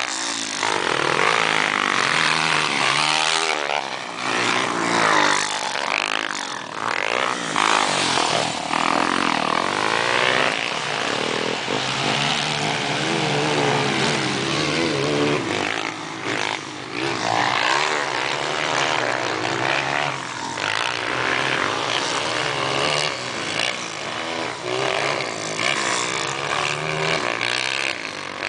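Several motocross motorcycles running at once, their engines revving up and falling back repeatedly as they accelerate and change gear, one over another.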